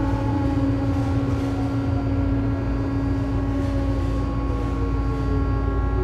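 Armature-chopper control of a Tobu 9000 series electric train car, heard from directly above the equipment. It whines with several steady tones, and this car's chopper makes an abnormal noise. A lower motor tone slides steadily down in pitch over the running rumble as the train slows.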